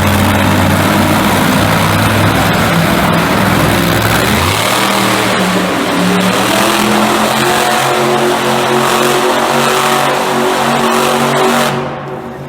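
Loud monster truck engine running hard. Its pitch changes about four and a half seconds in, then climbs slowly before it cuts off sharply near the end.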